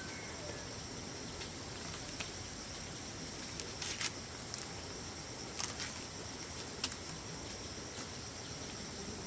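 Steady high-pitched chorus of insects, crickets or cicadas, with a few short snaps or crackles, the sharpest about four seconds in.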